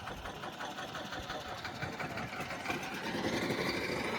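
A small piston engine running with a rapid, even beat, growing louder, its pitch creeping slightly up.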